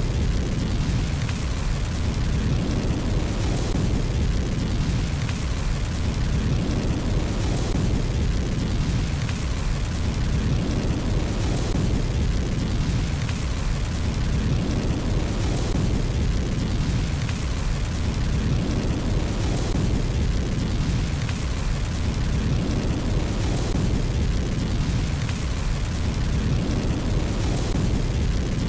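Fire burning in a fireplace: a steady low roar with crackles, and a sharper burst of crackling that comes back about every four seconds.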